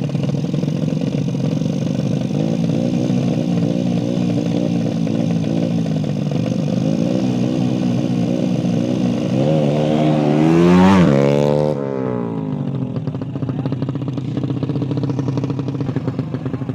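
Small-displacement motorcycle engine idling low, set up for a 'sleep engine' idle. It is revved once about ten seconds in, rising in pitch for a second or so, then dropping back to idle.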